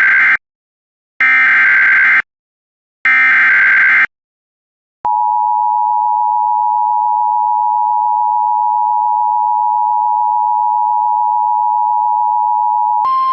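NOAA Weather Radio alert: the end of one screeching SAME digital header burst, then two more bursts of about a second each, followed by a steady alert tone held for about eight seconds. The sequence announces a severe thunderstorm warning.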